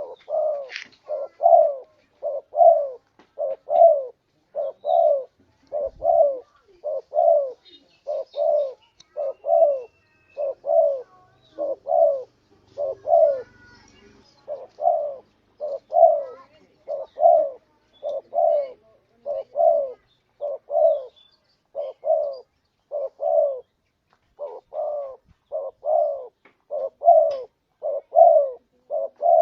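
Spotted dove (tekukur) cooing over and over, its soft low notes coming in close pairs about once a second, with a couple of short breaks. This is the dove's call played as a lure to draw wild doves in.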